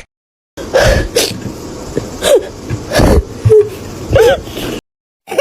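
A voice whimpering and sobbing in a few short, broken cries over a steady noisy background.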